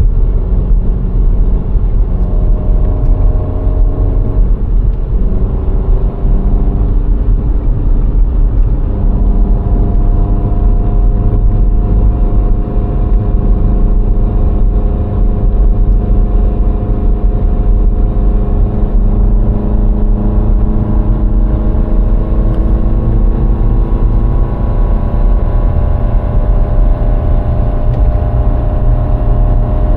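VW Golf IV 1.6-litre engine running under way over a heavy, steady road rumble. The engine note shifts in pitch a few times in the first seconds, then climbs slowly through the middle.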